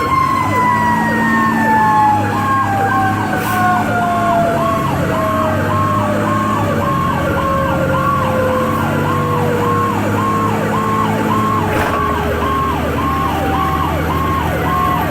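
Fire truck sirens: an electronic siren yelping, its tone sweeping up and down about twice a second, while a mechanical Q siren winds down, its pitch falling slowly over about twelve seconds until it fades. The truck's engine drones underneath.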